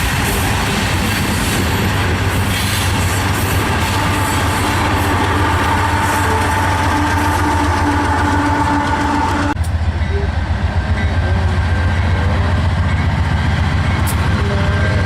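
A freight train passing close by: steel wheels rumbling and clattering over the rails, with a thin steady squeal in the middle. The sound changes abruptly a little past halfway, turning to a deeper rumble.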